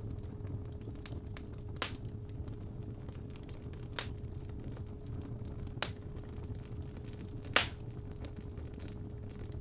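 Fireplace fire crackling over a low rumble, with four sharp pops about two seconds apart, the loudest near the end. A steady 417 Hz tone sounds throughout.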